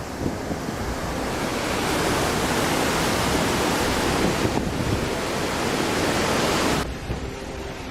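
Loud rushing noise of storm wind and surging water, even and without any tone, changing abruptly about four and a half seconds in and dropping about seven seconds in.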